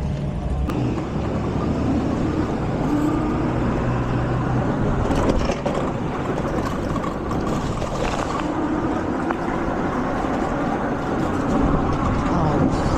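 Car engines running: a steady low engine drone with a noisy rumble.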